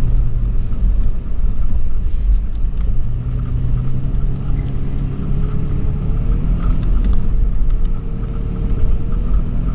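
A 2013 Toyota 4Runner's 4.0-litre V6 engine running steadily while driving on sand, with a low rumble throughout. A faint higher whine rises a little about six seconds in.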